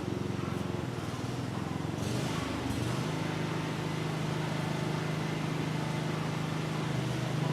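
Honeybees buzzing around an opened top-bar hive: a steady, dense hum whose low tone grows stronger about three seconds in.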